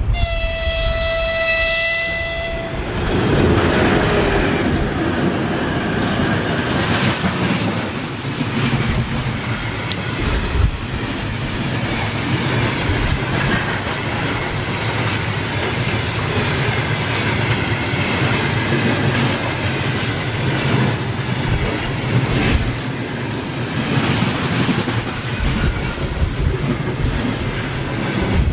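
A train sounds one steady horn blast of about two and a half seconds at the start, then runs past with a continuous rumble and the clatter of wheels over the rails.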